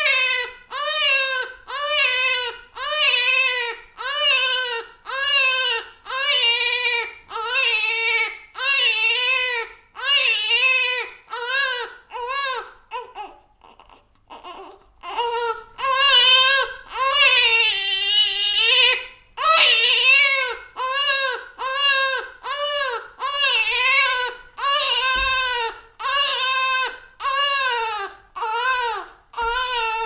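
Baby crying in short wails, about one a second, each rising and falling in pitch. About halfway through, the crying breaks off briefly, then comes one long wail of about three seconds before the short wails resume.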